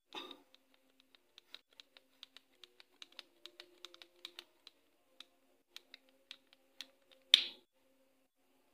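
Small hard parts being handled by hand: a run of light, irregular clicks and taps, about three or four a second, with a louder clack and scrape about seven seconds in.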